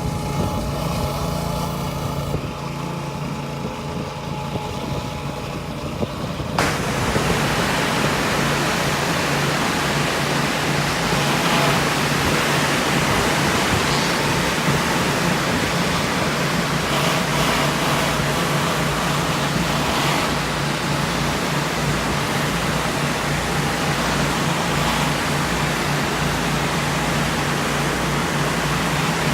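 Pressure washer running with a steady low hum; about seven seconds in, a dense hiss of high-pressure water starts suddenly and holds steady as the surface cleaner sprays the concrete.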